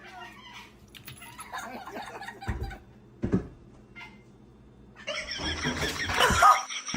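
A cat meowing and yowling in short calls, with a loud, rough noisy stretch lasting over a second near the end that cuts off suddenly.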